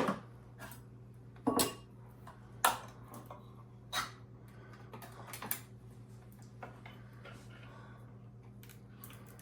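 Kitchen utensils and dishes clinking and knocking: a handful of sharp clinks about a second apart with softer ticks between, over a faint steady low hum.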